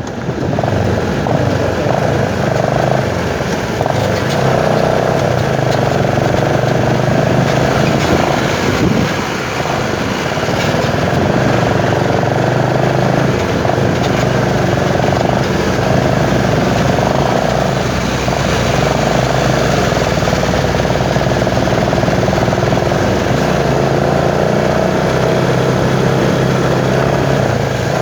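Motorcycle engine running steadily under way, with a constant rush of wind noise over it.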